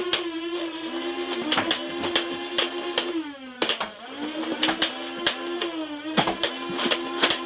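Motorized flywheel Nerf blaster firing darts in quick succession: a steady motor whine broken by sharp clicks, each shot briefly dragging the pitch down. About halfway through, the motors wind down and then spin back up.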